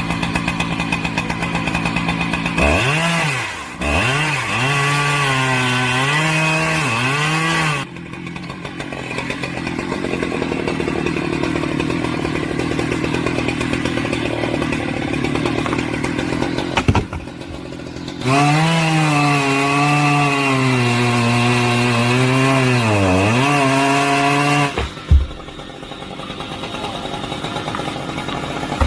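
A petrol chainsaw idling, then twice revved up to full throttle for a cut of about five seconds, its engine pitch sagging and wavering as the chain bites into the wood. Between and after the cuts it drops back to a low idle.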